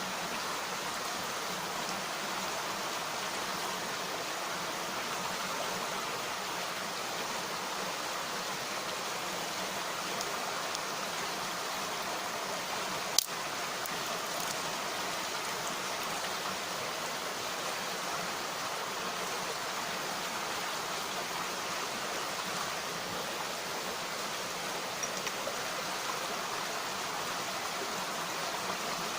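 Mountain stream flowing in a steady rushing wash of water. One sharp snap stands out about halfway through.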